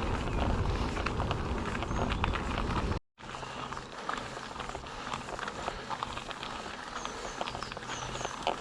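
Mountain bike riding over rough ground: wind rumble on the microphone and quick rattling clicks from the bike, which cut off abruptly about three seconds in. A quieter stretch follows, with a low steady hum and a few short high bird chirps near the end.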